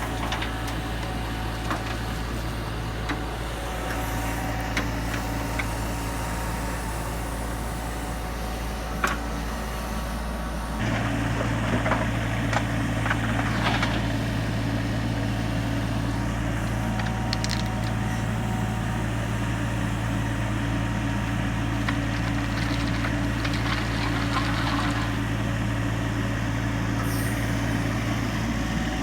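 Mini excavator engine running steadily, its note stepping up and louder about eleven seconds in as it takes on more throttle or load. Occasional brief clinks and scrapes sound over it.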